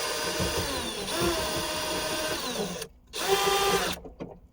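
Power drill spinning a socket to back out the bolts that hold the spoiler and third brake light. It runs for about three seconds with its speed rising and falling, stops briefly, then runs again in a short burst of about a second.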